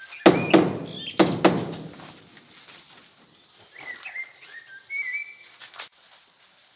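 Two heavy thuds about a second apart, followed by a bird whistling short gliding calls.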